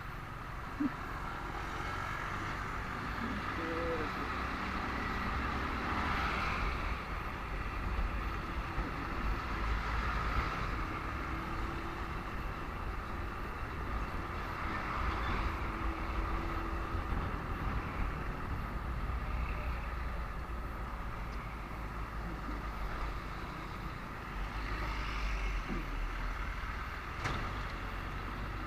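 Steady traffic noise from slow-moving highway traffic, with motor vehicle engines and a low rumble, heard from a motorcycle in the flow. A single short knock comes just under a second in.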